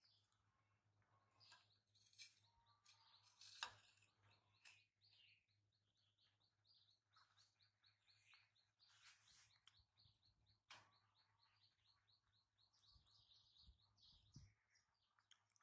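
Faint bird chirping: a short high note repeated quickly, about four times a second, with a few sharp clicks, the loudest about four seconds in.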